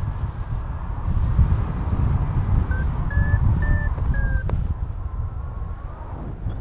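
Wind buffeting the microphone in flight, with a paragliding variometer giving four short beeps about three seconds in, their pitch stepping up and then slightly down: the vario's lift tone, signalling rising air.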